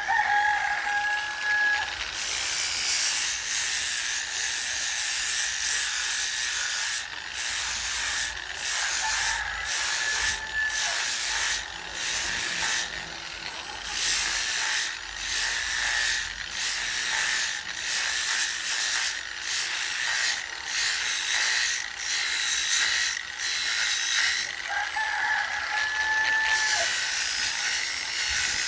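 A wooden bowl being worked by hand with rapid repeated scraping strokes on the wood, a rough hiss broken by short pauses about once or twice a second. A steady whine sounds briefly at the start and again near the end.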